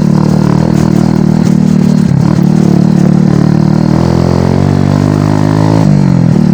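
Motorcycle engine running while riding, heard close up at the handlebars, with a steady note; its pitch shifts over the last two seconds.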